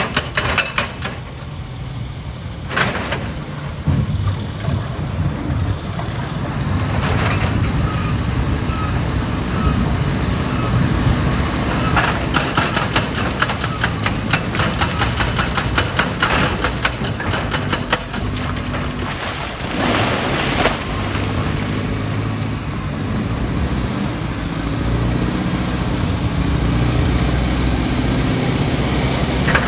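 Heavy diesel machinery running steadily, with rocks clattering and knocking in quick runs, thickest in the middle of the stretch and again a little after.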